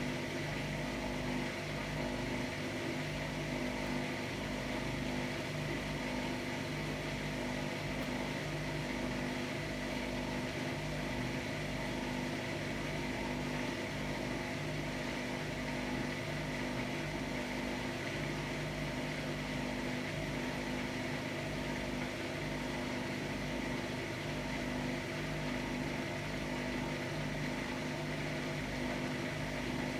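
Hotpoint-Ariston Aqualtis AQD972F 697 washer-dryer running a cycle: a steady machine hum with a few constant tones and no sudden knocks.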